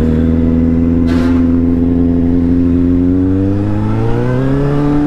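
Superbike engine running steadily while riding, its pitch climbing slowly near the end as it speeds up.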